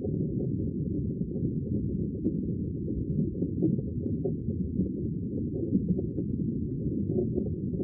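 Sea water with a steady, muffled low rumble, no separate wave crashes standing out.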